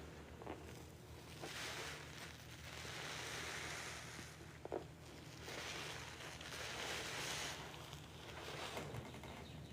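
Rinse water streaming and splashing out of a sponge squeezed twice, each squeeze giving a swell of water sound a few seconds long.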